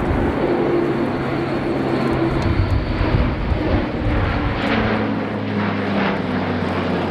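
Airbus A400M's four Europrop TP400 turboprop engines droning steadily as the transport flies a display pass; the tone of the drone drops a little about halfway through.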